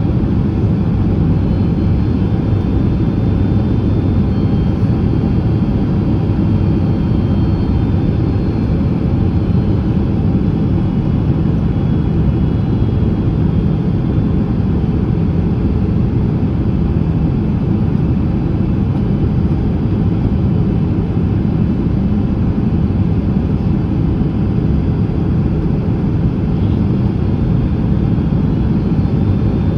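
Steady cabin roar inside a Boeing 767-300ER on final approach, engine and airflow noise heard through the fuselage, deep and even, with faint steady whines higher up.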